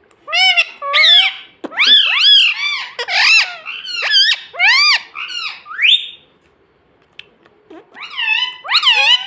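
A parrot chattering in a quick run of high, squeaky calls that swoop up and down in pitch for about six seconds. It falls quiet, then calls again near the end.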